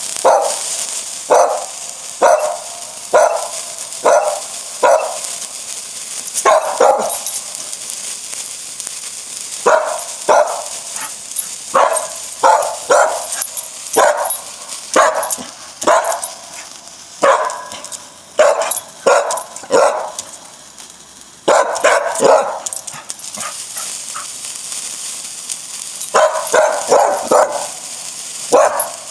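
A dog barking over and over, about one bark a second, in runs with short pauses between them, over a steady high hiss.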